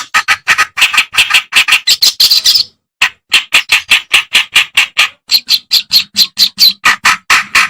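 Kerak basi (an Acrocephalus reed warbler) singing a loud, harsh, chattering song of rapidly repeated notes, about five or six a second, with a brief break about three seconds in.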